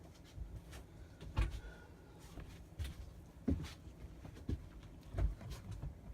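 Handling noise while a parrot is held for nail clipping: a handful of irregular knocks and thumps with soft rustling between them.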